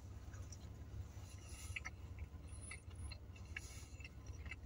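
Quiet chewing of food, faint scattered mouth clicks and ticks, over a low steady hum.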